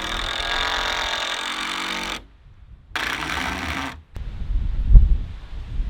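A power tool's motor running at speed for about two seconds and then winding down, followed by a second burst of about a second. Wind buffets the microphone after it.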